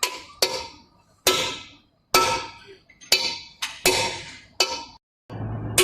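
Hammer blows on a drift, driving valve guides in a diesel engine cylinder head: about eight sharp metallic strikes at uneven spacing, each ringing briefly. Near the end the sound cuts out for a moment and comes back with a steady low hum under the blows.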